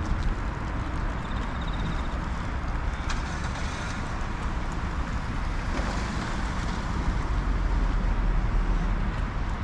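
Wind rushing over the microphone of a camera on a moving bicycle, mixed with road and tyre noise, growing stronger near the end. A brief high, rapid ticking comes about a second and a half in.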